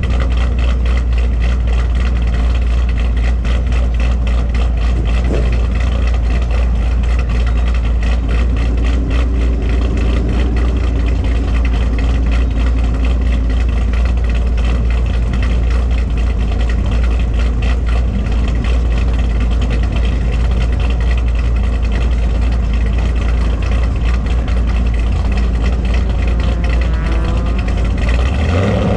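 A car engine idling steadily with a strong low note and an even pulse.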